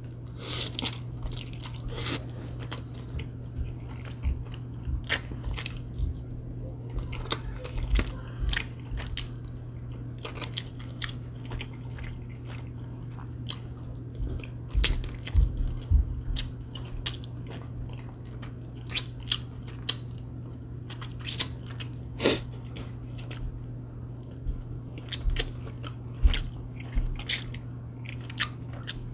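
A person chewing and biting chicken wings close to the microphone, with irregular crunches and mouth clicks, over a steady low hum.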